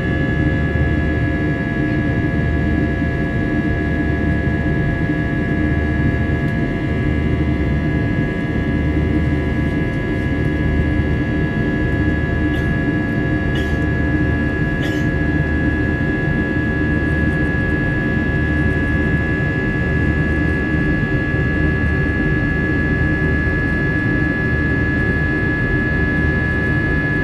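Airbus A320's IAE V2500 turbofan engines running at steady high thrust: a loud, steady rumble under a strong high whine, with a slow low throb about every two seconds.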